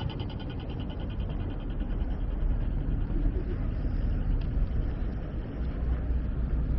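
Low, steady outdoor rumble of city street ambience, which grows louder about two and a half seconds in.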